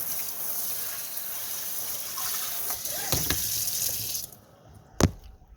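Water running from a tap into a sink, shut off about four seconds in, followed by a single sharp knock.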